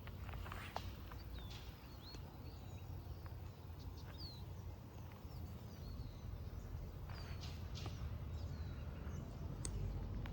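Birds calling: short, downward-sliding chirps scattered through, over a steady low rumble with a few sharp clicks.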